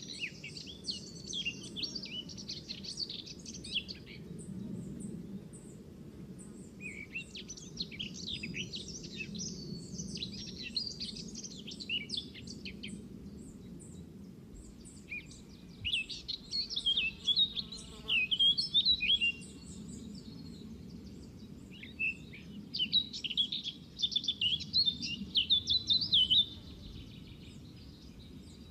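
Small birds chirping in bouts of rapid, high twittering a few seconds long, with short pauses between bouts, over a steady low background hum.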